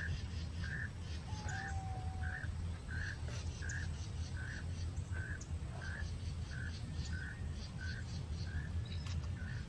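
A bird repeating one short call over and over, evenly, about twice a second, over a steady low rumble.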